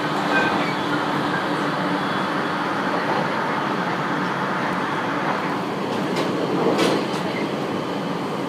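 Running noise heard from inside a 701-series electric train car underway: a steady rumble of wheels on rail with a faint steady hum, and a few short knocks near the end.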